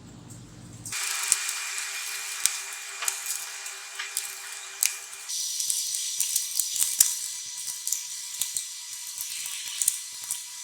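Hands working over a laptop: a steady scratchy rustle with many scattered small clicks and ticks of plastic parts being handled and wiped.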